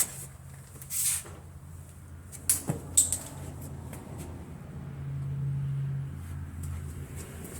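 Tools and parts being handled during a car suspension job: a few sharp clicks and knocks, the loudest a pair near three seconds in, over a low steady hum that swells between about five and six seconds.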